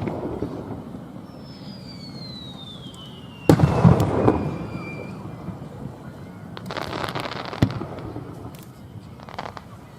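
Aerial firework shells bursting: a big boom about three and a half seconds in, a long falling whistle over the first half, then a crackling hiss around seven seconds with a sharp crack at its end and smaller cracks after.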